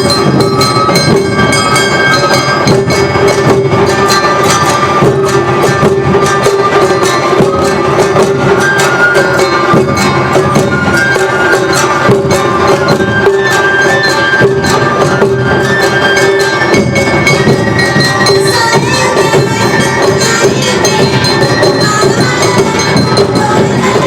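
Awa odori festival music played live by a large band: drums and clanging hand gongs keep up a fast, driving beat under high, held flute lines. It is loud and dense throughout.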